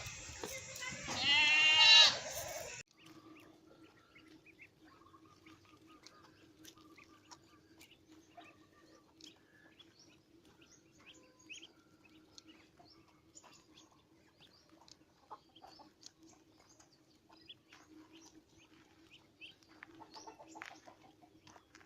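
A goat bleating, a loud wavering call that cuts off suddenly about three seconds in. After that there is only a faint steady hum with scattered small chirps and clicks.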